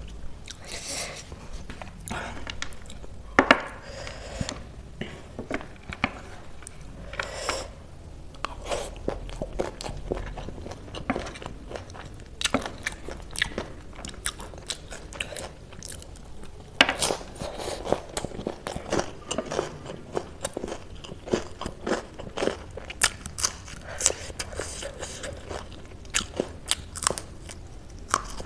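Close-miked eating: biting and chewing, with many irregular crisp crunches that grow denser about halfway through.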